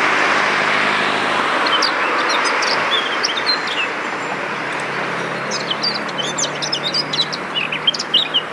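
Small birds chirping in quick, short high notes, sparse at first and coming thick and fast over the last few seconds, over a steady rushing background noise with a faint low hum.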